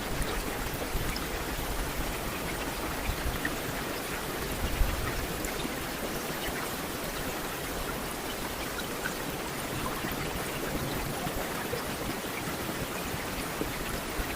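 Steady rain falling, an even hiss with scattered small drop ticks and a few slightly louder spatters around the fifth second.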